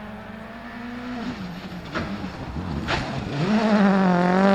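Rally car engine on the stage, its note getting steadily louder as the car approaches, with two sharp cracks about two and three seconds in. Near the end the engine is loudest, its pitch dipping and rising again.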